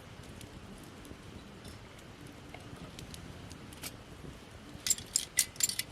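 Wood campfire of gathered branches crackling, with scattered small pops and a burst of louder snaps about five seconds in.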